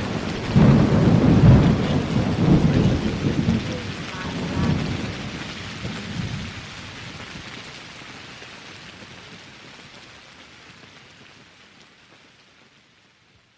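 Thunder rumbling over steady rain, the rumbles dying away after about six seconds while the rain fades out to silence at the end.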